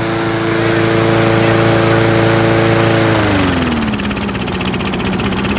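Small lawn mower engine running steadily at speed, then slowing about three seconds in, its pitch falling to a lower steady speed.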